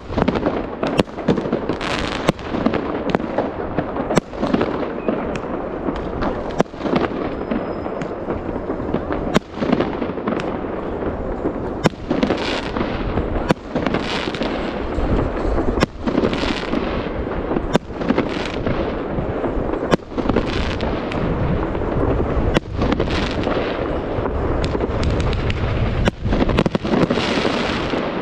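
Fireworks display: a steady run of sharp bangs, roughly one or two a second, over a continuous crackling and rumbling of bursting shells.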